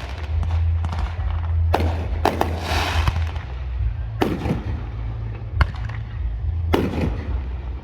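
Aerial fireworks bursting: about five sharp bangs a second or more apart, one followed by a crackling fizz, over a steady low rumble.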